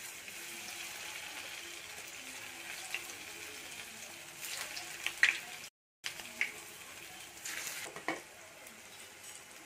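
Slices of steamed dough sizzling in hot oil in a frying pan as they are dropped in one by one, a steady hiss with a few sharp crackles. The sound cuts out for a moment a little past halfway.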